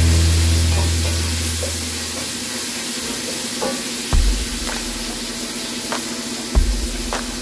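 Food sizzling in a pot on a gas stove while a spoon stirs it, with a few sharp clicks and dull knocks of utensils and containers being handled.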